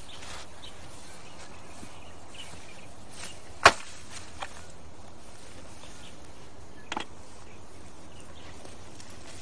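Steady outdoor background hiss with a few sharp cracks; the loudest comes about three and a half seconds in, and a double one follows about seven seconds in.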